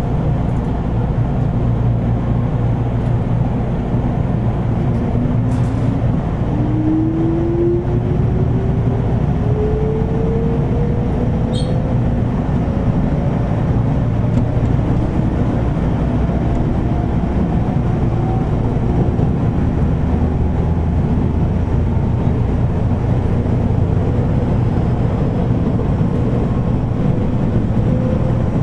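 Interior running sound of a JR 413 series electric multiple unit: wheels rumbling on the rail, with the traction motor and gear whine rising slowly and steadily in pitch as the train gathers speed. The air conditioning runs loudly underneath, with a couple of brief clicks.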